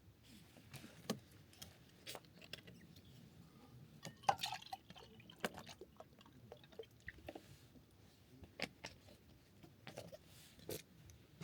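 Scattered small clicks and knocks at an irregular pace, the loudest cluster about four seconds in.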